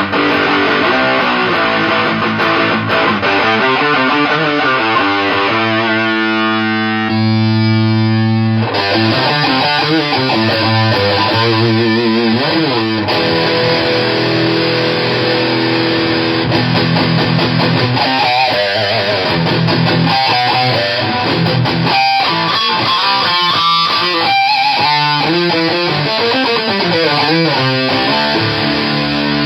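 Electric guitar playing fuzz-distorted riffs through a solid-state amplifier, driven by a 77 Fuzz Blender fuzz pedal boosted by a Shroot pedal. Quick note runs mix with a chord held for a couple of seconds about six seconds in.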